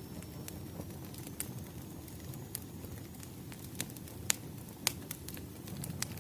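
Wood fire crackling: irregular sharp pops and snaps over a low, steady rumble, with a couple of louder pops a little after the middle.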